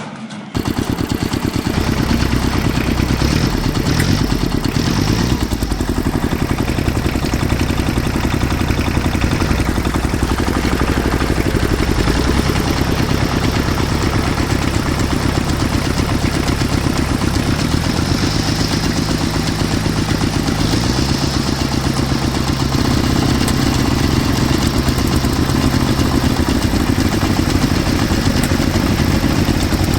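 Engine running steadily, its pitch shifting up and down a few times between about eighteen and twenty-two seconds in.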